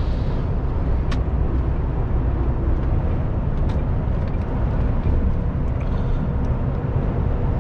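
Steady engine and road rumble of an HGV tanker lorry cruising at motorway speed, heard inside the cab, with a couple of faint ticks.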